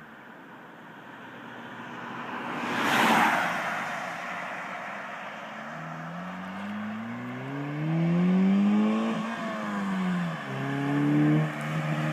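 Chevrolet Cobalt four-cylinder engine with an aftermarket intake and sport exhaust, accelerating: the exhaust note climbs for about three seconds, falls away as the revs drop, then rises again near the end. A short rushing whoosh comes about three seconds in.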